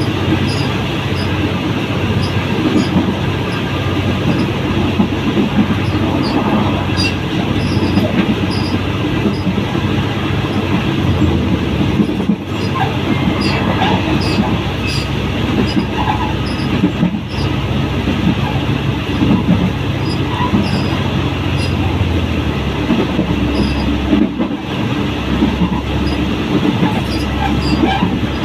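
Passenger train running along the track, heard from an open carriage doorway: a steady rumble of wheels on the rails with small repeated clicks.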